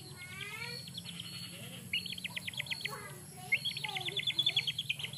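Small birds calling in quick chattering trills: two runs of rapid high notes at about ten a second, the second run longer and ending near the close. A few falling chirps come first.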